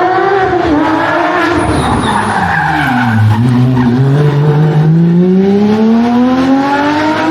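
Rally car's engine dropping in pitch as the car slows for a corner, with tyre noise, then rising steadily as it accelerates away.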